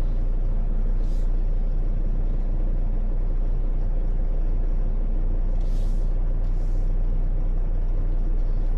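Semi truck's diesel engine running with a steady low rumble, broken by three short hisses of air: one about a second in and two close together near the end.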